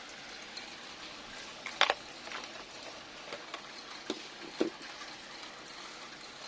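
A few light clicks and taps over a steady hiss, the loudest a quick double click about two seconds in and two more a little past the middle.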